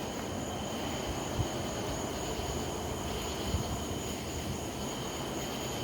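A steady high-pitched drone, which the recorder wonders may be cicadas, running at an even level over a low rumble.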